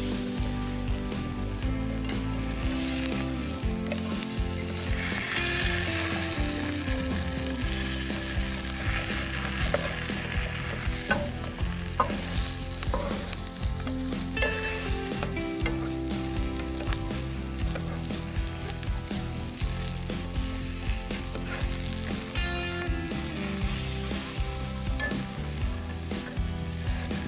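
Chicken quesadilla, a folded flour tortilla, sizzling steadily as it fries in oil in a nonstick frying pan. A wooden spatula moves it in the pan, with a couple of sharp taps about halfway through.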